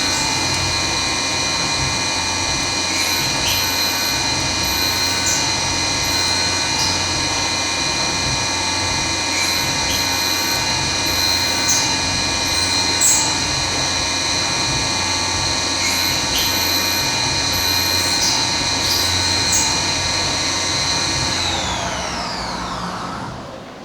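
Milling machine spindle running steadily with a high whine while it machines 6061-T6 aluminum billet, with short clicks every second or two. About 21 seconds in, the whine falls in pitch and fades as the spindle winds down.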